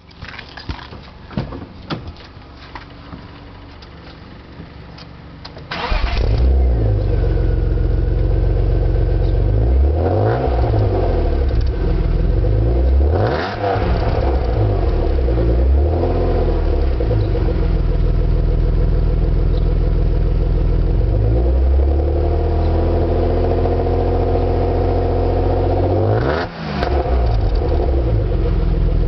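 BMW 328i engine starting up about six seconds in, after a few clicks, then idling. The throttle is blipped several times, so the revs rise and fall about five times.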